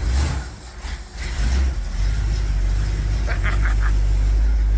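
Engine of a long-stored old car running on a fuel-pump bypass, just brought back to life: it dips briefly about half a second in, then settles into a steady low rumble.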